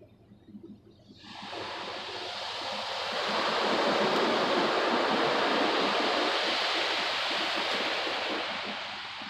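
Automatic car wash spraying water over the truck, heard from inside the cab: a rushing hiss starts about a second in, swells as the spray passes over, and fades near the end.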